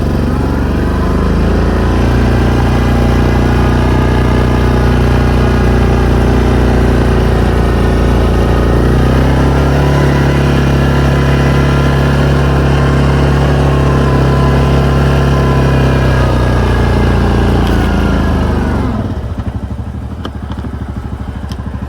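Engine of a snow-plowing vehicle running steadily under load. Its note shifts about nine seconds in and drops away near the end as it eases off.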